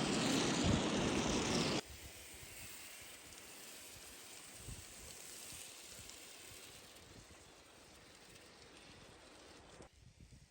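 Water spraying hard onto a car, then cutting off suddenly about two seconds in, leaving a faint hiss.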